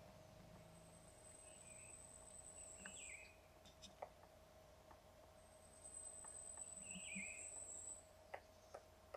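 Near silence: faint forest ambience. A thin, very high steady tone sounds twice for about two to three seconds each, with a few soft short chirps and several faint isolated taps.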